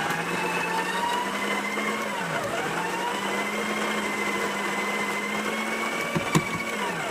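Electric coffee grinder motor running with a steady whine, its pitch dipping briefly about two seconds in, then winding down near the end as it is switched off. A single sharp click comes shortly before it stops.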